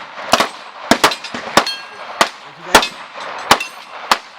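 Gunshots fired in quick, uneven succession, about eight sharp cracks in four seconds, each with a short ring after it.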